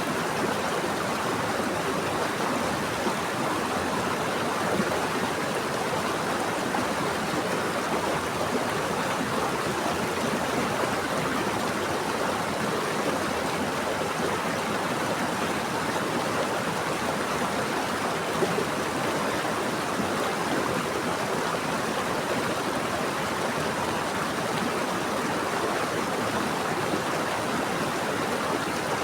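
Running water flowing steadily, an even rushing sound with small splashes.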